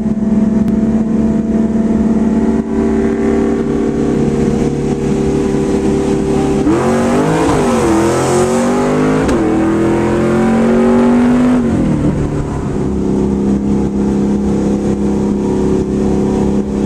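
Car engine heard from inside the cabin, droning steadily, then accelerating hard about seven seconds in. The pitch climbs and falls back at each of about three gear shifts before it settles to a steady drone again.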